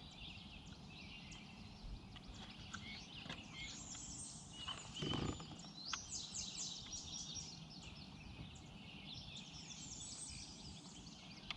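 Songbirds singing faintly in the background, in repeated quick chirping phrases, with one soft knock about five seconds in.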